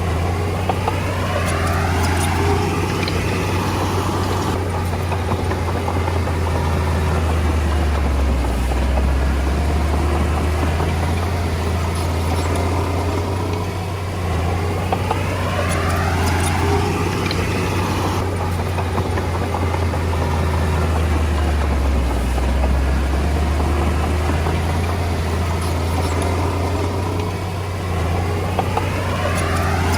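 Komatsu D20A bulldozer's diesel engine running steadily with a deep low hum, swelling and easing in a repeating cycle about every fourteen seconds as the dozer works, with faint scattered clanks.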